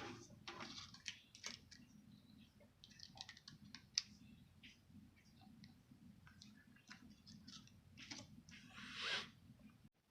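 Faint clicks, taps and rustling of tableware being handled at a meal, with one sharp click about four seconds in and a longer rustle near the end.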